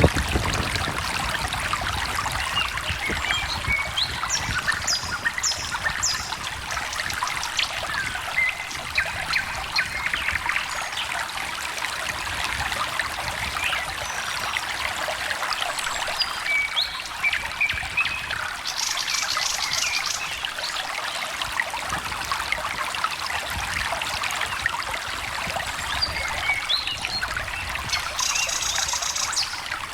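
A small stream trickling and babbling steadily over stones, with birds singing over it in short bursts of high, rapid notes, clearest about five seconds in, around twenty seconds in and near the end.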